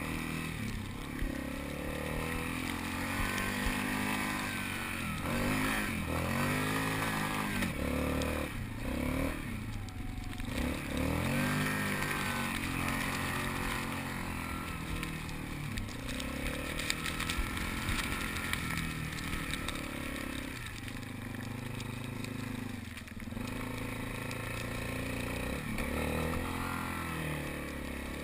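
Yamaha Wolverine ATV engine running under a rider, revving up and easing off again and again in repeated rising and falling sweeps.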